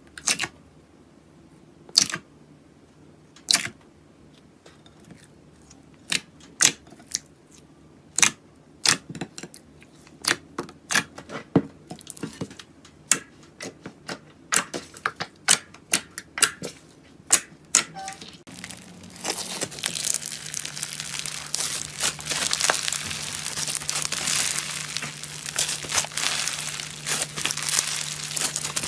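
Crisp snaps and cracks of a crunchy material being crushed, sparse at first and coming quicker, then about two-thirds of the way through giving way to continuous dense crackling and crunching.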